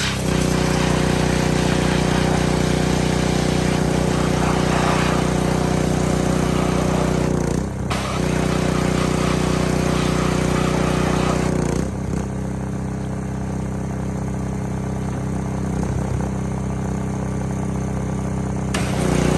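Small gas engine of a pressure washer running steadily, with the hiss of the spray starting and stopping: the spray breaks off briefly about 8 seconds in and again for several seconds from about 12 seconds, then resumes near the end.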